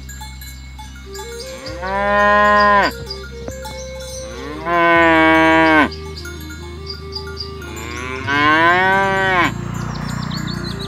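Cattle mooing: three long moos, each about a second, spaced a few seconds apart. Each call's pitch rises at the start and drops away at the end.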